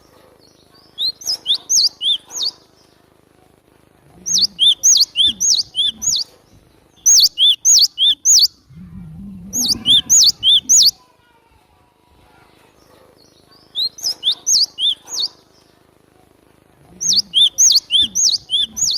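Cinereous tit (glatik batu) calling in bursts of rapid, sharp, repeated notes, each note sweeping down in pitch. There are six bursts of one to two seconds each, separated by short pauses. This is the kind of call used as a lure to draw in and tutor glatik batu.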